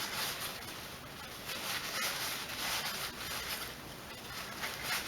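Bolts being scrubbed clean by hand: repeated scratchy scrubbing strokes of uneven rhythm.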